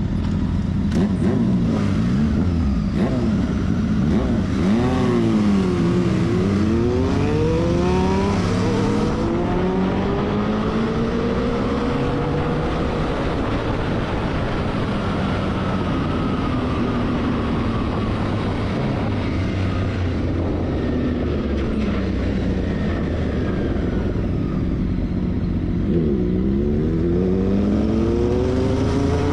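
Motorcycle engine running, its pitch dipping and then climbing again several times as it slows and speeds up, over steady road and wind noise.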